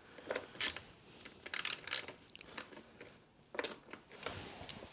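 Tools and small metal parts being handled during mower repair work: a series of short, irregular clicks and scrapes.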